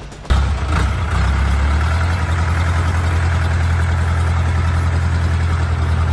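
Heavy machine's diesel engine running steadily with a deep, even note; it cuts in abruptly a moment in.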